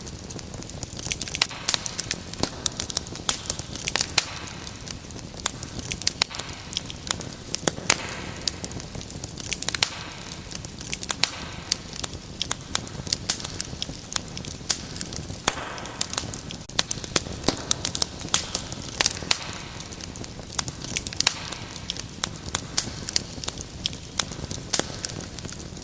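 Wood fire burning in a fireplace: many irregular sharp crackles and pops over a steady soft hiss.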